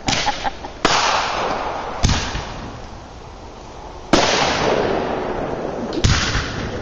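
Fireworks going off: about five sharp bangs a second or two apart, each trailing off in a hiss that fades away.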